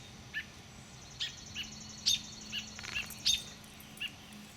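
Small birds chirping: short, sharp, high single chirps scattered every half second or so, with a faint rapid trill of high notes behind them in the first three seconds.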